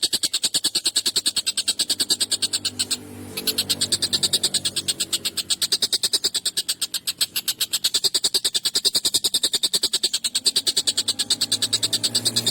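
Tengkek buto (collared kingfisher) giving a long, fast, harsh chattering call of about ten notes a second, breaking off briefly about three seconds in and then carrying on.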